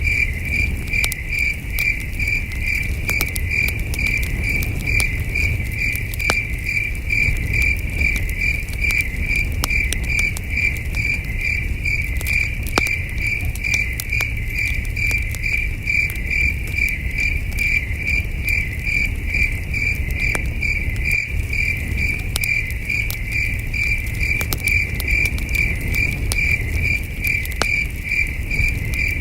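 Crickets chirping in a steady, even pulse several times a second, with a campfire crackling and popping and a low rumble beneath.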